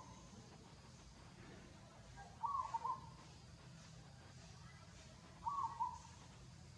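A bird repeating the same short two-part call about every three seconds, heard twice, over a faint low hum.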